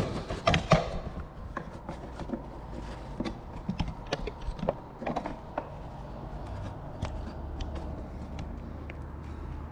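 Scattered knocks and clicks as an old wooden sash window and its new cord are handled and tried out, thickest in the first six seconds. A low steady hum comes in about seven seconds in.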